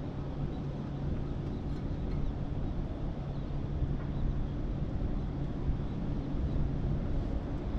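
Boat motor running with a steady low hum under wind and water noise.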